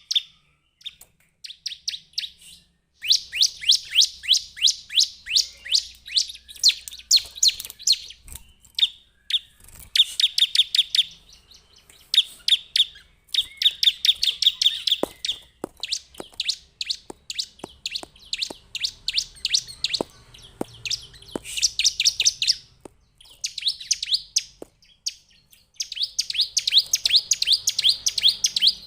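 Bar-winged prinia (Javan prinia, 'ciblek') calling: runs of sharp, high chipping notes at about four or five a second, each run lasting a few seconds with short pauses between.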